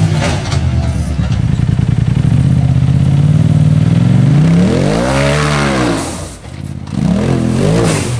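Side-by-side UTV engine running steadily with a rapid flutter, then revving up and dropping back twice in the second half.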